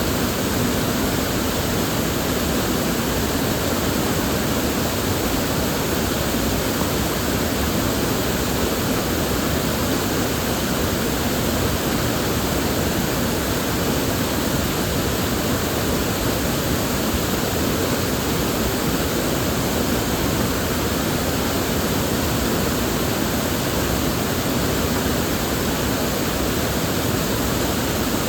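River water flowing in a steady, unbroken rush, with no distinct splashes or other sounds.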